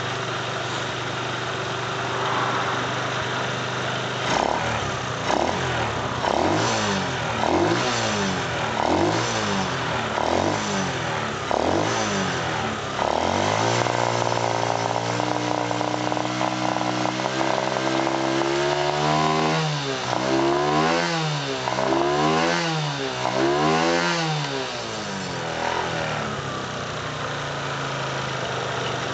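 Kawasaki KSR110's small air-cooled four-stroke single-cylinder engine idling, then revved with repeated quick throttle blips, held at higher revs for several seconds, blipped four more times, and settling back to idle.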